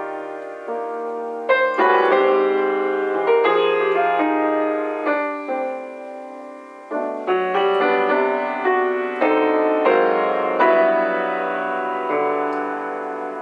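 Solo piano playing a slow jazz ballad: full chords struck one after another, each left to ring and fade.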